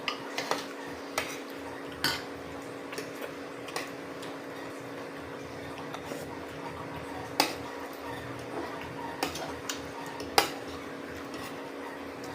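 Spoons and forks clinking against plates and bowls while eating, in sharp, irregular clinks, the loudest about seven and a half and ten seconds in.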